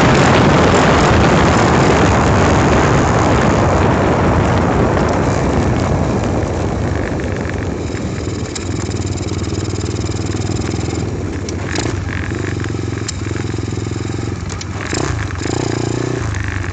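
Apollo dirt bike's single-cylinder engine running under way, with heavy wind rushing over the microphone. About six seconds in, the wind and engine ease off, leaving a steady, lower engine note as the bike slows.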